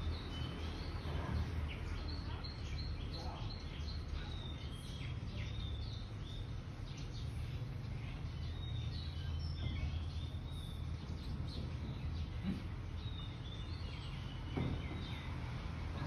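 Small birds chirping in the background, many short high chirps scattered throughout, over a steady low hum.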